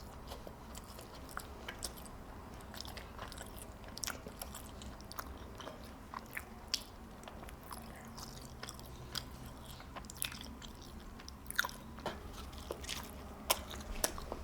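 Close-up chewing and biting of a Southwest crunch wrap, with irregular sharp mouth clicks and light crunches.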